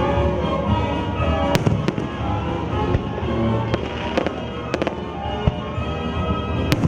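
Fireworks display: aerial shells bursting in a scattered series of sharp bangs, the loudest about one and a half seconds in and near the end, over steady music from the show's soundtrack.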